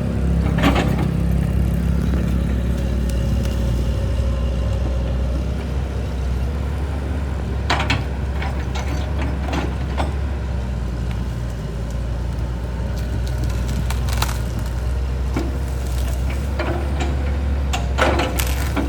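An engine running steadily with a low drone. A few separate clanks and knocks sound over it.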